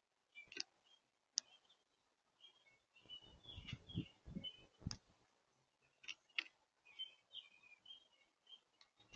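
Small birds at a feeder: faint, short, high chirps scattered through, with sharp clicks and taps and a cluster of low thumps about three to five seconds in.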